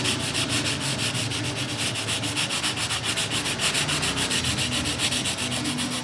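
Clipper blade rubbed back and forth on fine 1000-grit sandpaper in quick, even strokes, several a second: the blade's edge is being smoothed so it stops nicking the skin.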